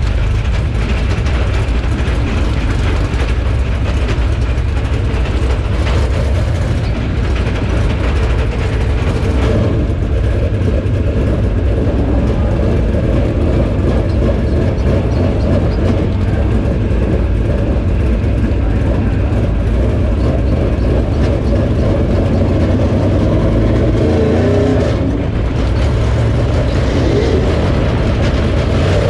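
Dirt late model race car's V8 engine running hard, heard from inside the car, loud and steady with its pitch shifting a few times as the throttle changes.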